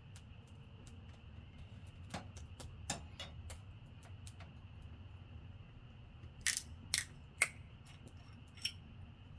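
Wood fire crackling, with irregular sharp pops from the burning wood and a cluster of three louder pops a little past the middle, over a low steady rumble.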